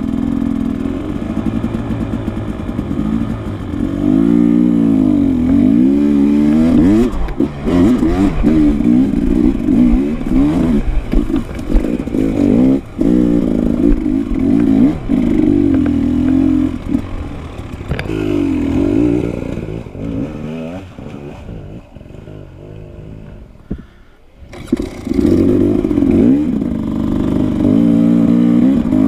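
Dirt bike engine being ridden hard, its pitch rising and falling over and over with the throttle, with some clattering knocks. For a few seconds about three-quarters of the way through it drops to a low murmur, then picks up again.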